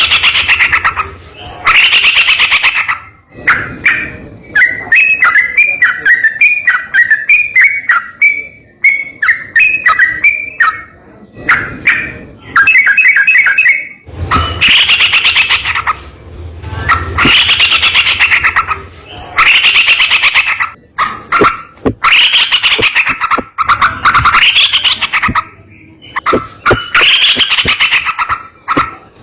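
Yellow-vented bulbul (trucukan) singing loudly and harshly in rapid rolling phrases, each about a second long and repeated with short gaps. Between about 4 and 11 seconds in the phrases give way to a long run of short rising chirps, then a quick trill.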